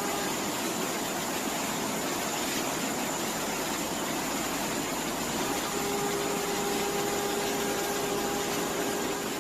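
Steady rushing noise with a faint steady hum, like running machinery or rushing water, unchanging throughout.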